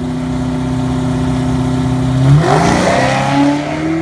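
Drag car engine held at steady revs on the start line, then launching a little past two seconds in: a sudden loud burst and the revs climbing as it pulls away, running an 80-shot dry nitrous system.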